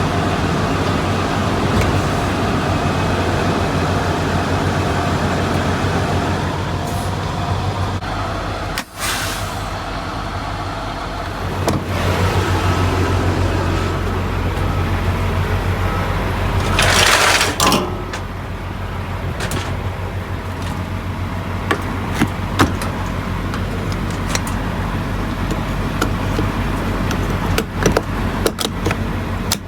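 Semi truck's diesel engine running steadily with a low hum. A short hiss comes about seventeen seconds in, and scattered sharp clicks and knocks follow near the end.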